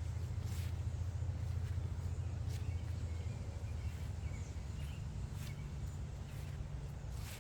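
Outdoor ambience: a steady low rumble that eases off about halfway through, with a few faint bird chirps and light ticks over it.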